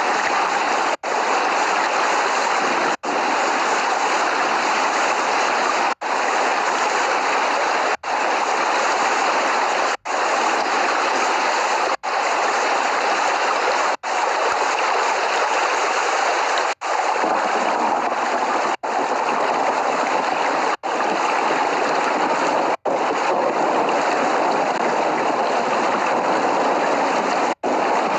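Steady rain, a dense even hiss of falling water. It is cut by very brief dropouts to silence about every two seconds, and no thunder sounds.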